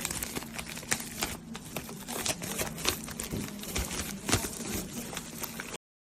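Close handling noise, dense crinkling with many small clicks over a faint steady hum, typical of plastic packaging being handled. It cuts off abruptly near the end.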